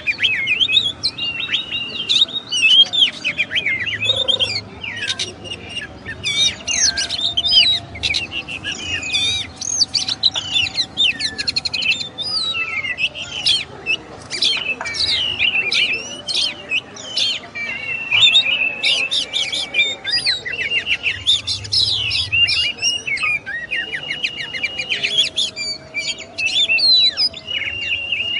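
Oriental magpie-robin (kacer) singing without pause: a rapid, varied song of chirps, whistles and quick trills, with a few longer held whistled notes in the second half.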